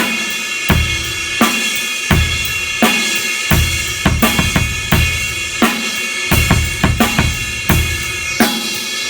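Drum kit playing a rock groove: a crash cymbal ridden in a continuous wash over bass drum and snare hits, a steady pattern with busier kick strokes in places.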